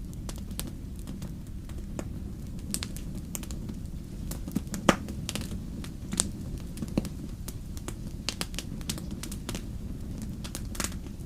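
Wood campfire crackling with frequent sharp pops, the loudest about five seconds in, over a steady low rumble.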